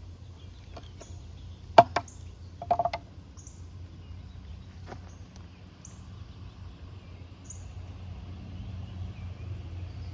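Outdoor ambience with a small bird giving short high chirps every second or two over a steady low hum. A few sharp knocks come about two seconds in and once more near the middle.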